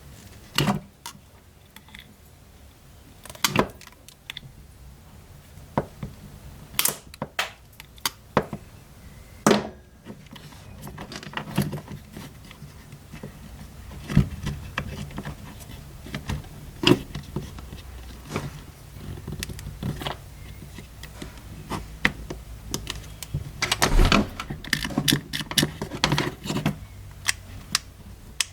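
Irregular clicks, taps and knocks of small plastic and metal parts being handled and worked on a bench while a cordless drill's parts are modified and fitted.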